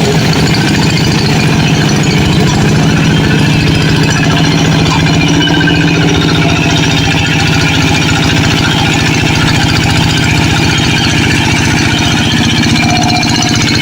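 Tractor engine running steadily at an even speed, with a rapid, regular firing beat.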